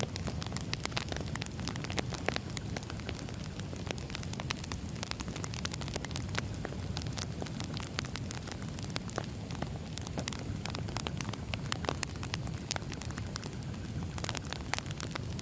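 Wood fire crackling and popping, with many irregular sharp snaps over a steady low rumble of flames.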